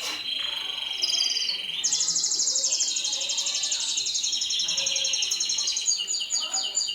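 Mosaic canary singing: whistled notes, then a long, fast rolling trill from about two seconds in, ending in a run of quick falling notes.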